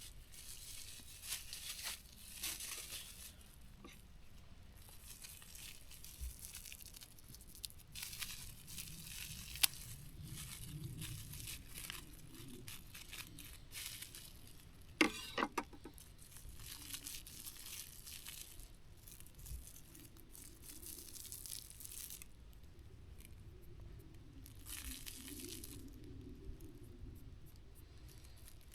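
Rustling and crinkling of food packaging being handled, in irregular bursts, with a quick cluster of sharp clicks about fifteen seconds in.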